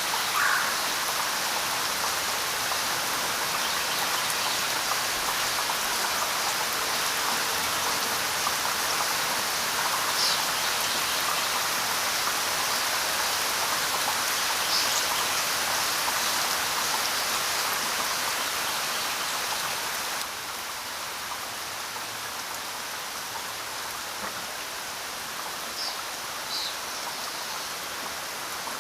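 Steady rain falling, an even hiss of many drops, with a few faint short high chirps over it. The rain steps down suddenly in loudness about twenty seconds in, then carries on evenly.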